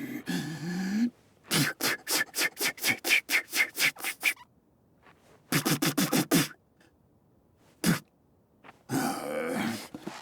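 A cartoon character's wordless vocal sounds. First a short grunt, then a fast string of short sharp vocal pulses, about five a second for three seconds. A shorter cluster of them follows, then a single click, and a noisy breathy sound near the end.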